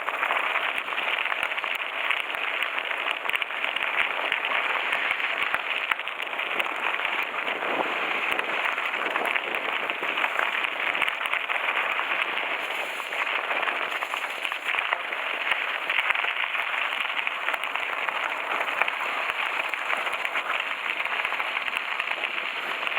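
Mountain bike tyres rolling over loose gravel on a coasting descent: a steady gravelly hiss scattered with many small clicks of stones.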